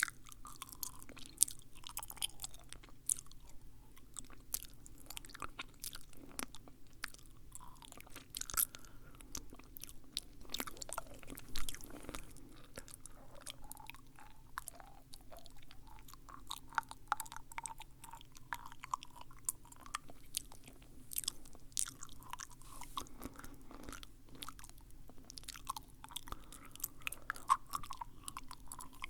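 Close-miked wet mouth sounds: a dense, irregular run of sticky clicks and smacks from lips and tongue.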